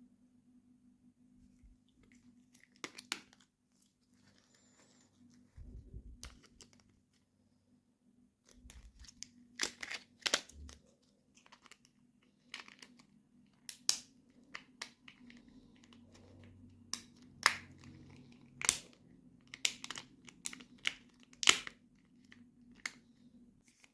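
Toy packaging being torn open and crinkled by hand: scattered sharp clicks and crackles, sparse at first and coming thicker and louder in the second half.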